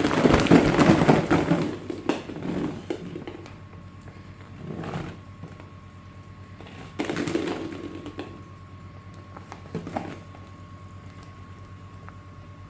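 Plastic ball-pit balls being handled, clattering and rustling in bursts. The busiest stretch is in the first two seconds, with shorter bursts spread through the rest, over a faint steady tone.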